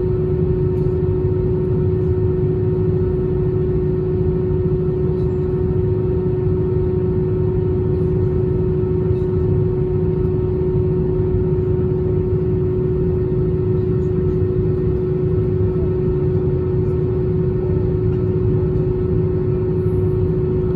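Steady airliner cabin noise on the ground before the take-off roll: a low rumble with one constant hum from the jet engines at idle, unchanging throughout.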